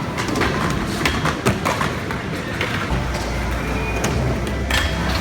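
Skateboard wheels rolling with several sharp, irregular clacks and knocks of the board; a steady low hum comes in about three seconds in.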